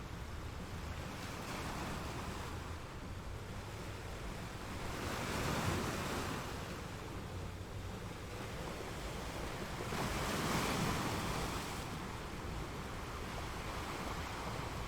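Ocean waves on the shore: a steady wash of surf, with two bigger waves breaking, one about five to six seconds in and another about ten to eleven seconds in.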